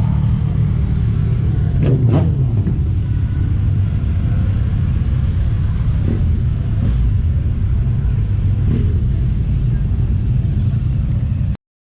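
Steady low rumble of motor vehicles running nearby, with a few short sharp knocks about two seconds in and fainter ones later; the sound cuts off abruptly near the end.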